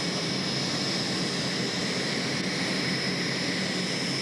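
Helicopter turbine engines of a turbine-powered pulling tractor running, a steady rushing noise with a constant high whine.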